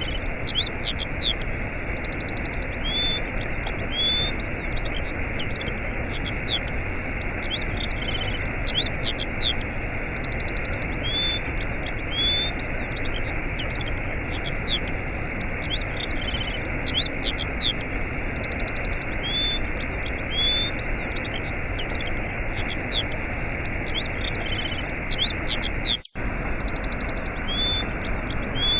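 Steady rush of a waterfall with small birds chirping and trilling over it in many short repeated calls. The water sound cuts out for an instant near the end.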